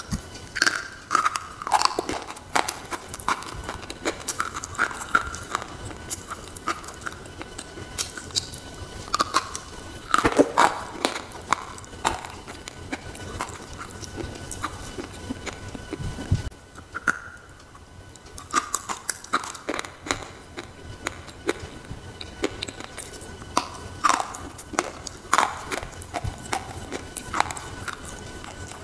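Close-miked bites and chewing of chalky white slate bars: irregular, sharp, dry crunches, with a short lull about midway.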